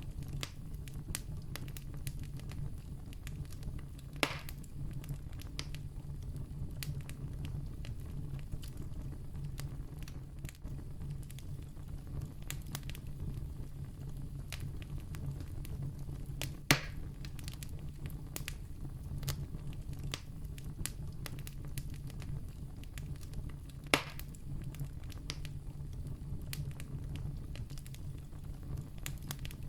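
Wood campfire burning, with a steady low rumble and constant small crackles. Three louder pops stand out, about 4, 17 and 24 seconds in.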